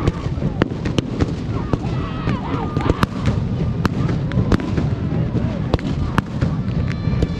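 Aerial fireworks bursting: sharp bangs, a few each second, over a continuous low rumble.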